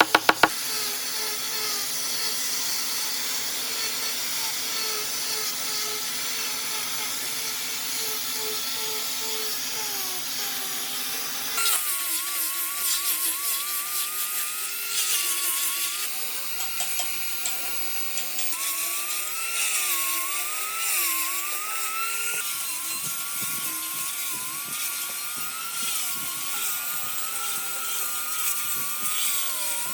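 A small high-speed power tool running with a steady whine and hiss. From about a third of the way in, its pitch drops and wavers up and down as the load changes.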